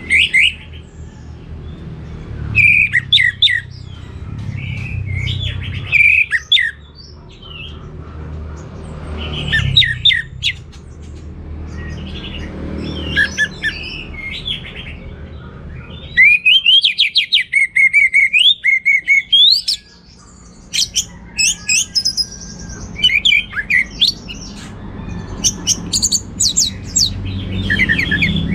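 Orange-headed thrush (anis merah) singing: varied phrases of high whistles and chattering notes separated by short pauses, with a long run of rapid repeated notes past the middle. A low rumble runs underneath.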